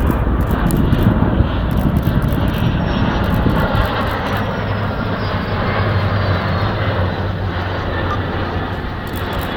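Jet engines of the Boeing 747 Shuttle Carrier Aircraft with Endeavour on its back, a loud steady rumble that slowly fades as the aircraft moves away, with a faint falling whine in the middle.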